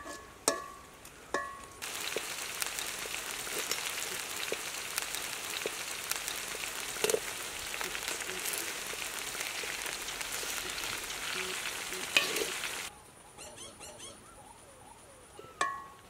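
A metal spatula clanks against an iron wok a few times, each clank ringing briefly. Then meat and green peppers fry with a close, steady sizzle as they are stirred, and it stops abruptly after about eleven seconds. One more clank of the spatula on the pan comes near the end.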